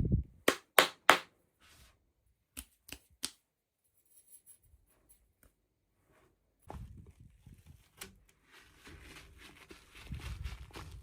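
Hands handling toy packaging: a low thump, then three sharp snaps in quick succession and three softer clicks, followed by steady rubbing and rustling of packaging material.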